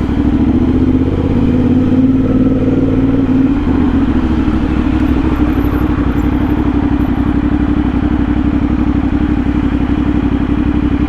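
CFMOTO 450SS parallel-twin engine running through an aftermarket slip-on exhaust while the bike is ridden. The engine note shifts over the first few seconds, then holds steady at a cruise.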